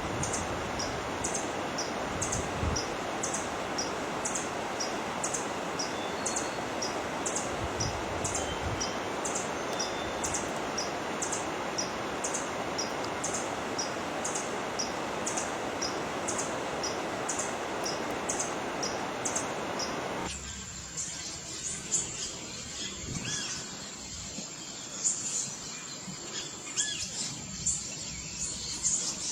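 Wild birds calling: a short high chirp repeated about twice a second over a steady rushing noise, then, after an abrupt change about two-thirds of the way in, scattered bird chirps over a steady high insect drone.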